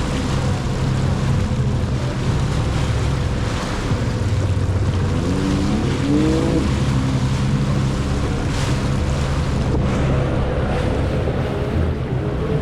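Jet ski engines running over water, with one engine's pitch rising briefly about five seconds in.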